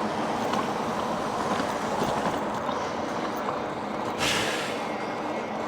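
Steady road and wind noise from riding an e-bike, with a brief hiss about four seconds in.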